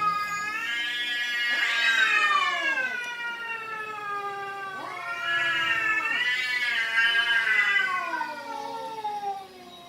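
Domestic cats yowling at each other in long, drawn-out, wavering calls that rise and fall in pitch. There are two big swells, one about two seconds in and one around six to eight seconds in. This is the caterwauling of cats squaring off.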